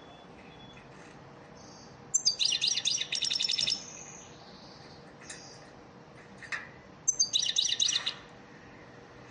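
European goldfinch song of the elmacık type, played as a song lesson: two bursts of rapid, high twittering trills, about two seconds in and about seven seconds in, with a couple of single short notes between them, over a faint steady hum.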